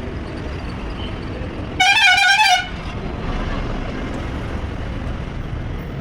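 A vehicle horn sounds once for under a second about two seconds in, its pitch wavering slightly, over a steady low rumble of engine and road noise.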